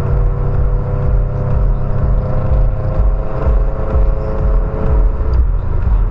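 Car engine running with a low, pulsing rumble and a steady hum that stops about five seconds in.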